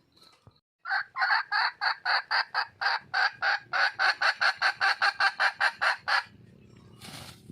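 Junglefowl hen cackling: a fast, even run of about two dozen sharp notes, some four to five a second, lasting about five seconds and then stopping. This is the wild hen's call to find a mate. A short rustle follows near the end.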